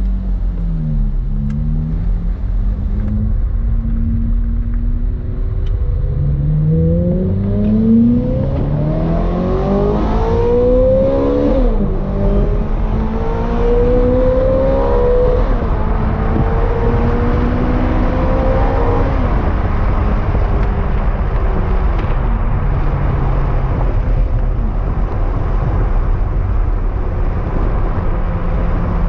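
Ferrari F430's 4.3-litre V8 accelerating, its pitch climbing through the revs. It drops sharply at a gearshift about twelve seconds in, climbs again, then holds and falls back to a steady cruise after about nineteen seconds.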